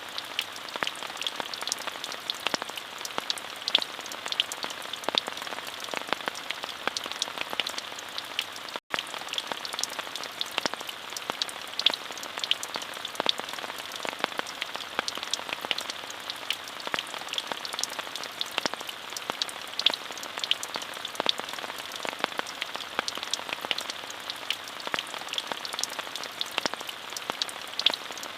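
Steady rain falling, a dense even hiss dotted with many sharp individual drop ticks. The sound cuts out for an instant about nine seconds in.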